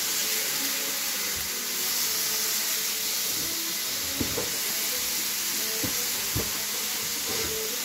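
Meat patties sizzling steadily in a hot frying pan on the stove. A few light knocks and scrapes of the spatula against the pan come in the second half.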